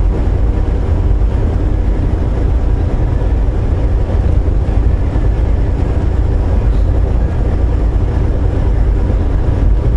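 Volvo VNL860 semi truck driving on the road: a steady low rumble of engine and road noise with no change through the stretch.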